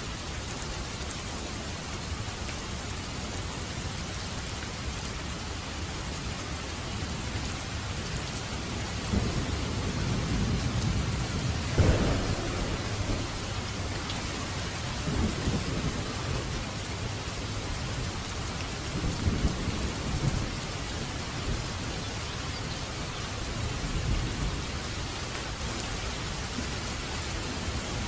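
Steady heavy rain with rolling thunder: low rumbles swell from about a third of the way in, with a sharp crack near the middle and a few fainter rumbles after.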